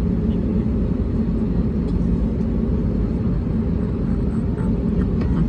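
Steady low rumble of an Airbus A320neo heard from inside the passenger cabin: engine and airflow noise with a faint steady hum.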